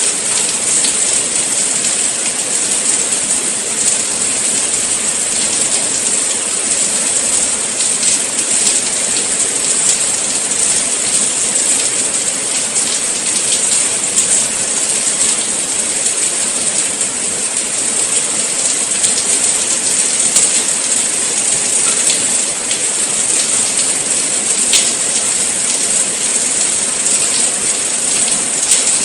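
Steady rain falling, an even hiss with many small patters of drops and a few sharper drips.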